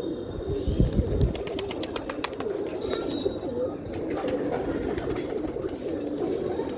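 Domestic pigeons cooing together, a continuous overlapping mass of coos, with scattered sharp clicks and a brief low thumping about a second in.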